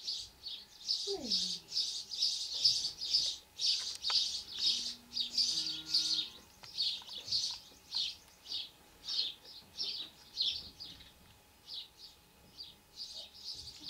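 Small birds chirping over and over, short high chirps about two or three a second.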